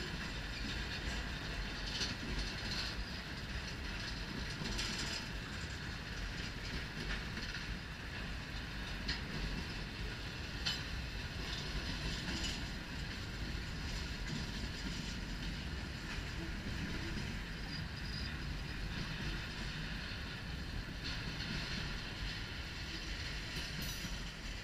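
Empty double-stack intermodal well cars of a freight train rolling past: a steady rumble of steel wheels on rail with scattered clicks over the rail joints.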